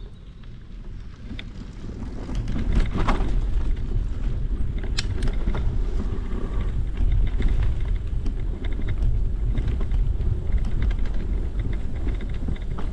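Wind rumbling over the microphone of a camera on a moving bicycle, with scattered light clicks and rattles from the ride. The rumble grows much louder about two and a half seconds in and stays loud.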